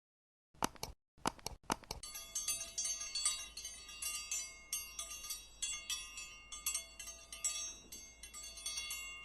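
A few sharp clicks, then a quick run of bright, ringing chime-like notes, like wind chimes or small bells.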